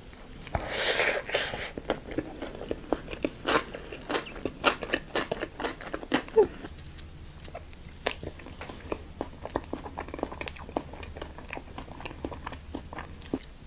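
Close-miked eating: a crunchy bite about a second in, then chewing with many small sharp mouth clicks and crunches.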